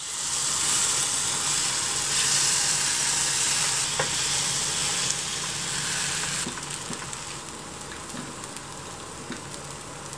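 Takoyaki batter sizzling and frying in a takoyaki pan, a dense steady hiss with a few light clicks, easing off somewhat about six and a half seconds in.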